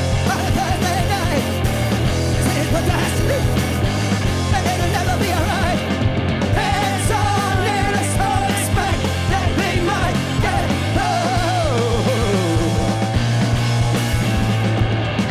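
A live rock band playing loudly, with a voice singing over a steady bass line.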